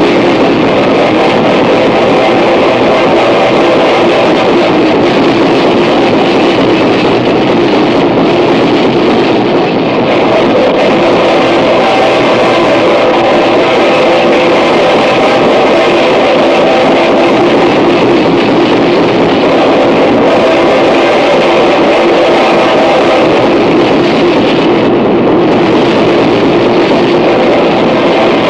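Harsh noise music: a dense, loud, unbroken wall of distorted noise with a faint steady hum underneath.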